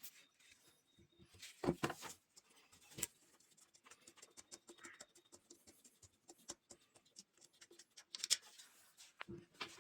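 Scattered light clicks, taps and short scrapes of small objects being handled, loudest about a second and a half in and again near the end.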